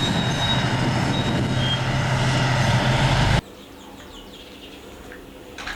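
Truck engine sound running steadily with a low hum, cutting off abruptly about three and a half seconds in.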